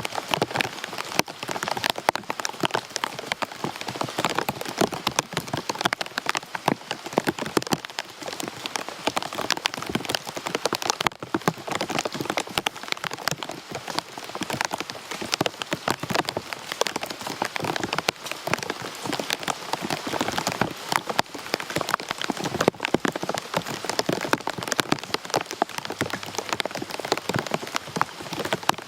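Steady rain, a dense close patter of individual drops hitting a surface.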